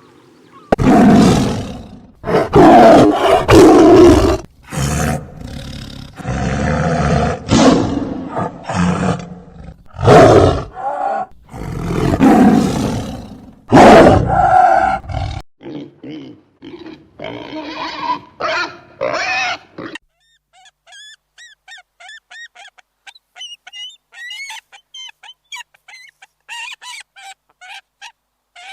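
Farm animal calls: loud, deep, repeated calls over the first fifteen seconds, fading into softer calls, then from about twenty seconds in a run of thin, high-pitched chirps.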